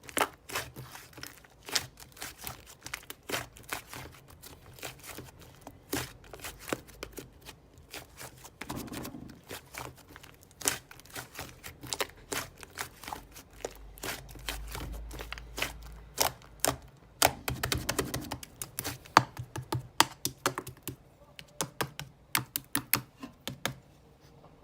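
Hands squishing and poking slime, making dense, irregular sticky clicks and pops.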